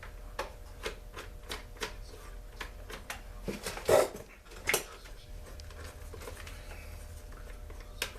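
Light clicks and clinks of hand tools and chainsaw parts being handled during disassembly, with two louder knocks about four seconds in and shortly after, over a faint steady hum.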